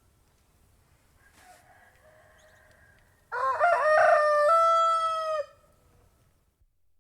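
Domestic roosters crowing: a faint, distant crow about a second in, then a loud crow about three seconds in that lasts about two seconds, climbing in pitch at its start and dropping off at the end.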